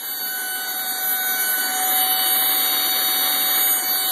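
Vizio TV giving out a loud, steady electronic buzz of several held tones over a hiss while its screen is frozen: a recurring fault that only unplugging the set stops.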